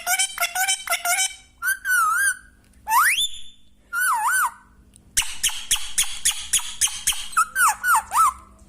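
Pet green parrot whistling and chattering: short wavering whistles, one quick rising whistle, then about two seconds of rapid clicking chatter, and more wavering whistles near the end.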